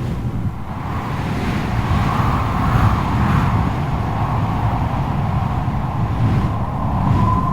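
Strong wind blowing in gusts: a heavy low rumble with a rushing whistle that swells and fades a few times. A steadier whistling tone begins near the end.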